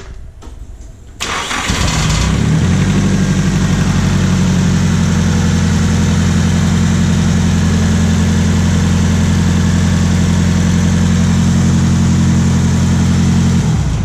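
Nissan 240SX's SR20DET engine being cranked over by the starter, starting abruptly about a second in and running steadily for about twelve seconds before cutting off near the end; the car has an ongoing no-start problem.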